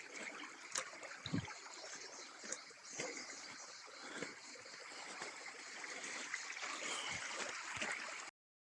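Mountain river running over rocks: a steady rush of water, with a few faint knocks. The sound cuts off suddenly near the end.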